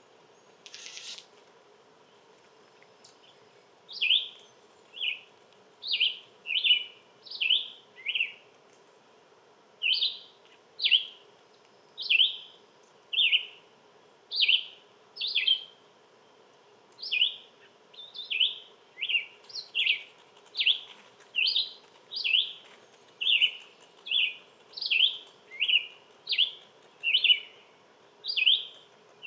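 A songbird repeating short chirps that fall in pitch, about one to two a second, starting about four seconds in.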